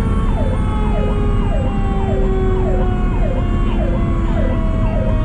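Fire truck electronic siren cycling about one and a half times a second, each cycle rising quickly, holding, then dropping. Under it a mechanical Q siren wails on one steady tone that slowly winds down in pitch. Heavy engine and road rumble from the truck runs underneath.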